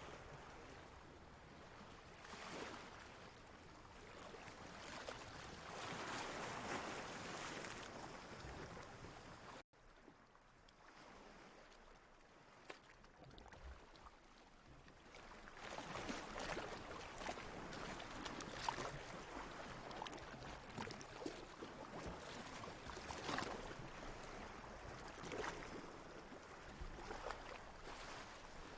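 Ocean water lapping and splashing in uneven swells. About ten seconds in, the sound cuts out abruptly and comes back quieter, then builds up again with frequent small splashes.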